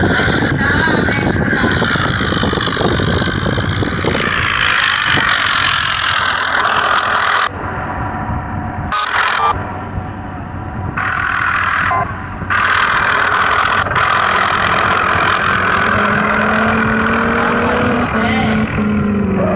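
A motor vehicle running, with dense road and engine noise broken by several abrupt cuts. Near the end an engine note rises slightly in pitch.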